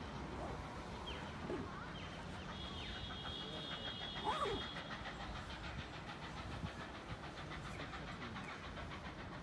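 Low steady rumble of a train approaching in the distance, with a few short high chirps over it and a brief high held tone about three seconds in.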